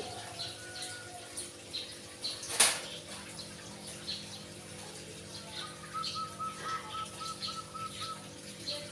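Caged birds chirping in short, high notes over and over, with one sharp, loud knock about two and a half seconds in. In the last third, a quick run of about ten even, lower-pitched notes.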